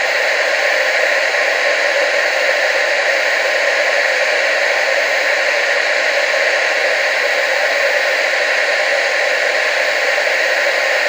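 Analogue TV static: a steady, even hiss, strongest in the middle and upper range with almost no bass.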